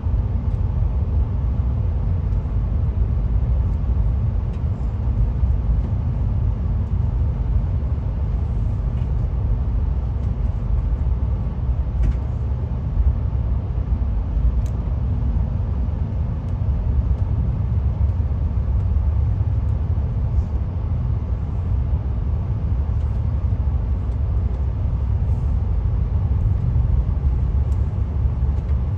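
Steady low rumble of a moving passenger train heard from inside a Skyline dome car: the cars rolling over the rails, with a couple of faint clicks.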